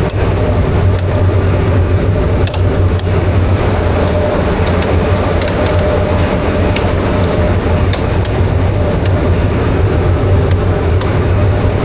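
Diesel engine running steadily on a test run after a major overhaul, a loud, even low drone. Occasional sharp clicks come through at irregular moments.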